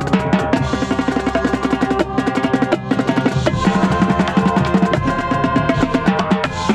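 Marching percussion playing a fast, busy rhythm, heard close up from the tenor drums (quads), with quick rolls and strokes over sustained pitched tones of the ensemble.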